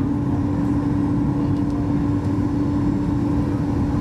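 Cabin noise inside a Boeing 737 MAX 8-200 with CFM LEAP-1B engines: a steady rumble of engines and airflow with a constant hum running through it.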